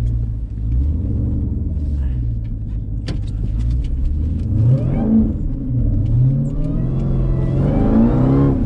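Jeep Grand Cherokee Trackhawk's supercharged 6.2-litre Hemi V8 running at low revs, then revving up twice, about halfway through and near the end, as the SUV accelerates.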